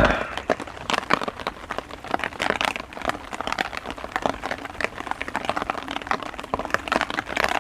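Heavy rain falling, with many irregular sharp taps of drops landing close by over a steady hiss.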